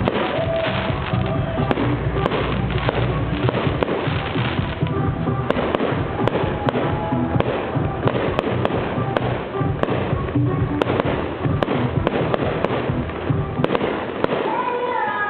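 Fireworks display: a dense, continuous barrage of bangs and crackling bursts, with music playing underneath.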